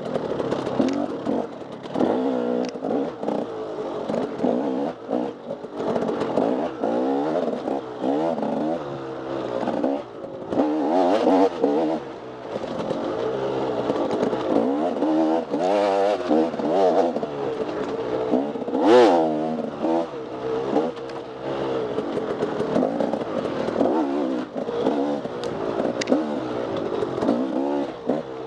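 Off-road dirt bike engine revving up and down without a break as it is ridden, with clattering and knocks from the bike. One louder, sharper rev comes about two-thirds of the way through.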